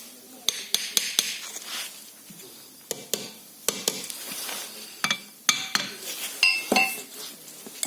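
Metal tools and brake caliper parts clinking and knocking against each other, a dozen or so sharp strikes at uneven intervals, a few near the end ringing briefly.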